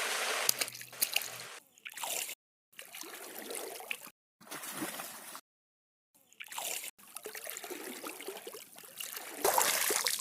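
Water sound effects: trickling, splashing water in several short pieces that cut off abruptly into brief silences.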